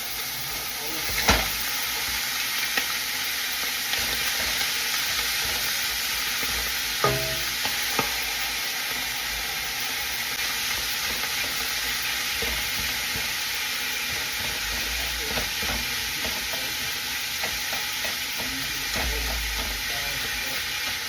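Ground sirloin frying in a pan, sizzling steadily, with a utensil stirring and knocking against the pan now and then; the sharpest knock comes about a second in.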